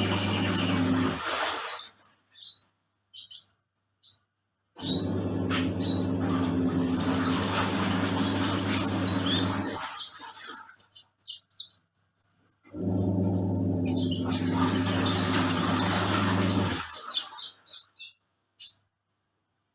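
Washing machine motor humming in stretches of about four to five seconds, stopping and starting again as in a wash-agitation cycle, while a small songbird, a kolibri ninja (sunbird), chirps with short high notes over it and in the pauses.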